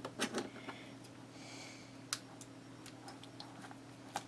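A few light clicks and taps of small craft pieces being handled on a work table, with a brief soft rustle about a second and a half in.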